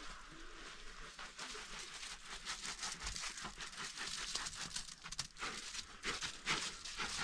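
Dense rustling and crackling made of many quick scrapes, getting louder about a second in.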